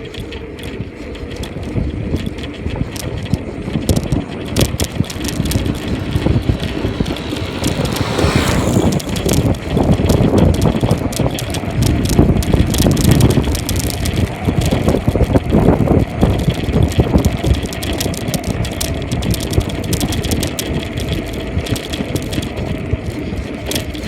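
Bicycle riding on a road: steady tyre and wind noise with many small rattles and knocks from the bike, and a falling whoosh about eight seconds in.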